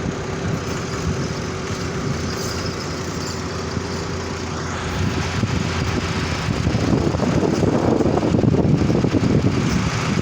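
Heavy machine engine running steadily, growing louder about halfway through and staying loud until near the end.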